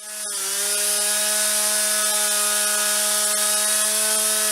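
Small gas engine of a power tool running at a steady high speed with an unchanging pitch, fading in at the very start.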